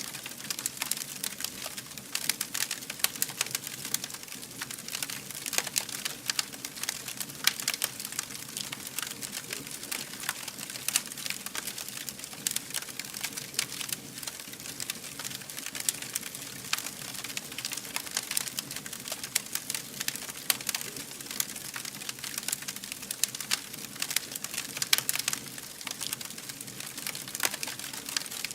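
Fire crackling: many irregular small pops and snaps over a steady hiss.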